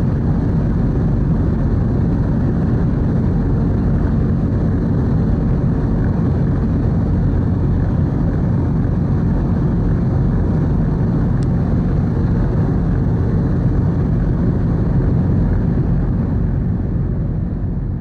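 Steady rumble of the car ferry Kuniga under way, its engine drone mixed with rushing wind and water noise, easing off near the end.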